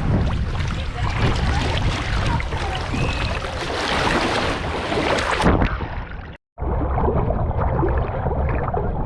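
Shoreline water and wind noise, with gusts buffeting the microphone. About six and a half seconds in the sound drops out for a moment and comes back duller.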